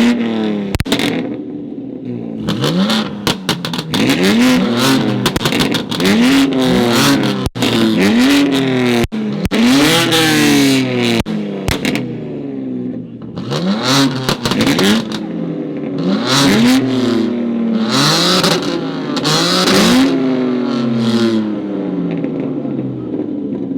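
Modified sports car engine revved over and over, about a dozen quick blips, each rising and then falling in pitch, with the exhaust popping and crackling as the throttle drops.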